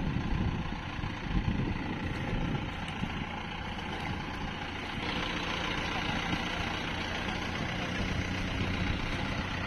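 Tractor diesel engine running steadily. About five seconds in the sound evens out and gains more high hiss.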